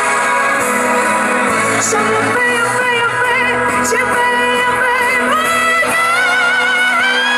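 Live pop band with a female lead singer, her melody entering about two and a half seconds in as long held notes with vibrato over a steady, full accompaniment.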